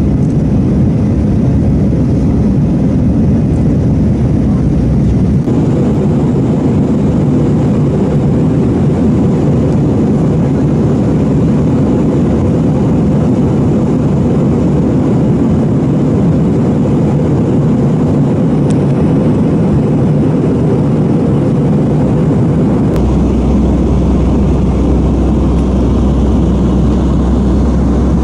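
Airbus A318 cabin noise during flight: a loud, steady rush of engine and airflow heard from inside the cabin. A deeper low rumble comes in about 23 seconds in.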